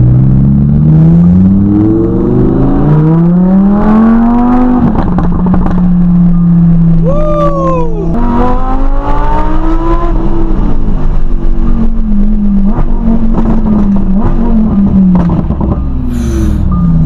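Lamborghini Huracán's V10 running loud through a Soul Performance race exhaust as the car pulls away. The engine note climbs for about five seconds, drops at a gear change, climbs again, then eases down in pitch.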